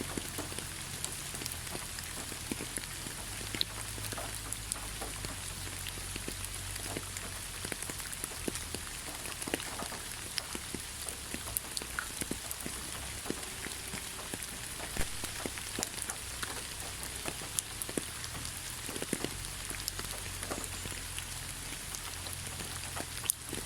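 Steady rain in a forest: an even hiss of rainfall with many separate drops pattering close by.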